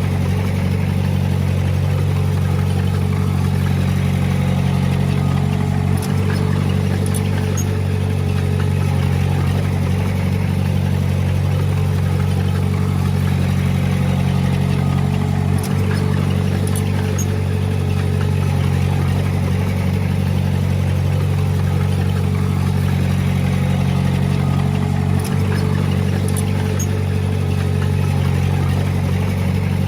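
Heavy diesel engine of earthmoving machinery running steadily, with a constant whine above the engine's hum and a short click about every ten seconds.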